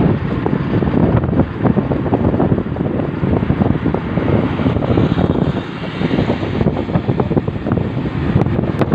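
Airliner engine noise, a loud rumble, mixed with heavy wind buffeting on the microphone.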